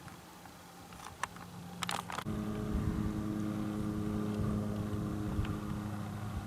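A few sharp clicks, then about two seconds in a steady, even-pitched motor hum starts and keeps running.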